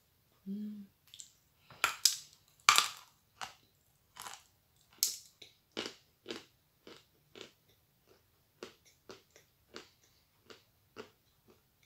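Loud crisp crunches of biting into a crumbly kurabye shortbread cookie about two seconds in, then steady close-up chewing, about two chews a second that grow softer.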